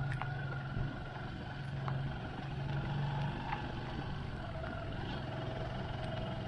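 Motorcycle engine running steadily at low revs while riding on a gravel road, with a few faint scattered clicks.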